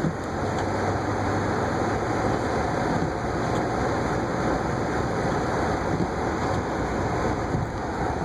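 A car driving on snowy streets: a steady rumble of engine and tyre noise.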